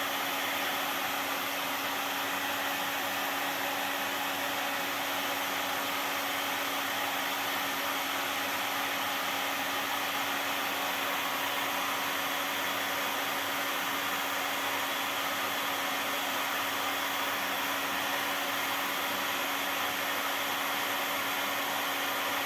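Heat gun blowing steadily, a continuous rush of air over a constant motor hum, heating plastic bottle caps until they soften and melt.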